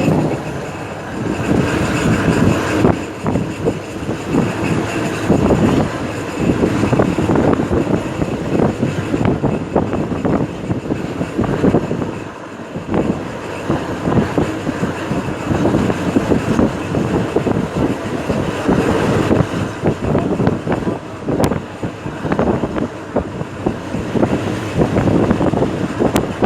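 Diesel train running past on the rails: a continuous loud rumble crowded with rapid rattling clicks, easing briefly about halfway through.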